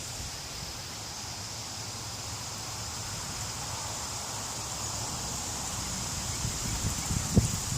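Gusty wind blowing through trees with leaves rustling. Low rumbling buffets of wind on the microphone build toward the end. A steady high hiss runs underneath.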